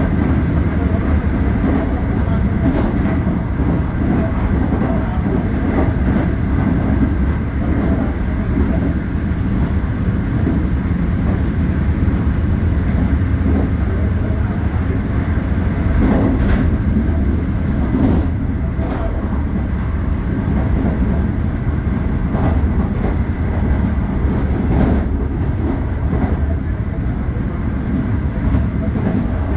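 Vande Bharat Express electric train running at speed, heard from inside the driver's cab: a steady low rumble and hum, with a few scattered clicks from the wheels and track.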